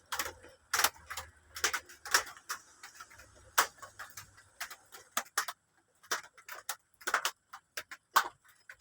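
Irregular sharp clicks and taps, a few every second, some louder than others.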